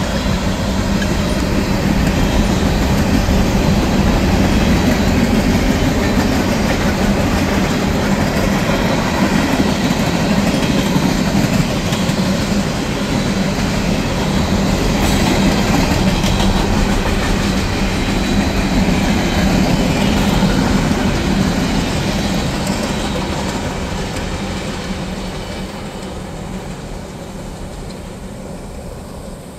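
CSX manifest freight train rolling past, its steel wheels clicking over rail joints. It runs steadily, then fades over the last several seconds as the train moves away.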